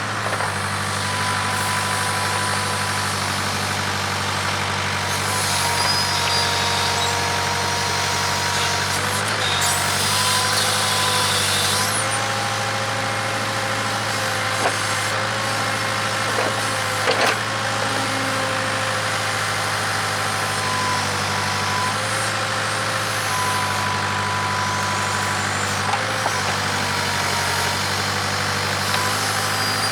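Case 580K backhoe's engine running steadily under working load, with a high whine that wavers in pitch and a few sharp knocks about halfway through.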